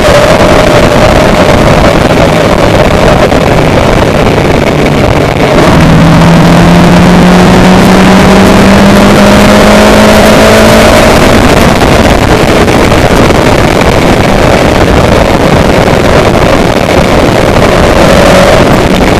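Loud, steady rushing noise of a vehicle's engine. Its pitch rises steadily for several seconds in the middle, as the engine speeds up.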